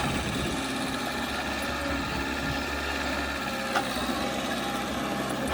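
Heavy earthmoving machine's diesel engine running steadily, with a single sharp click about two-thirds of the way through.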